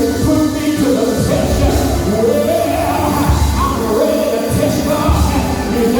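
Live church music: voices singing a melody over band accompaniment with a heavy bass.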